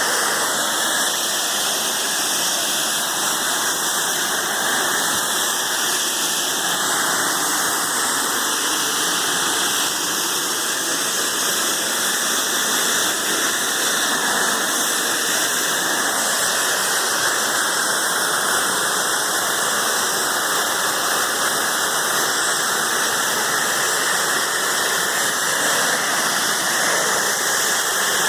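High-pressure water jet from a pressure washer's dual-pressure lance spraying steadily without a break, a loud even hiss of water striking the siding.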